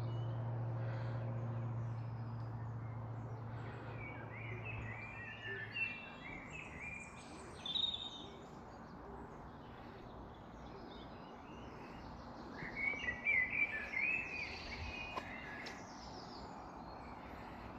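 Wild birds singing in a garden: bursts of high, chirping song a few seconds in and again past the middle. Under the first part there is a low, steady hum that fades out about six seconds in.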